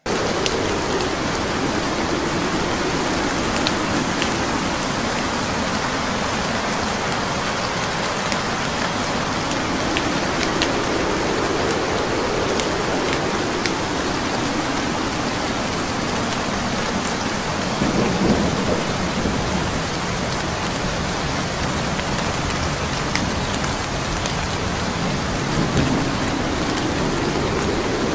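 Steady rain mixed with the crackle of a burning wood fire, with sharp pops here and there. Low rumbles of thunder swell about 18 seconds in and again near the end.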